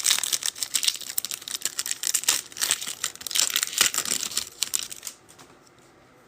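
A pack of football trading cards being torn open by hand, its wrapper crinkling and tearing in quick rustles for about five seconds, then stopping.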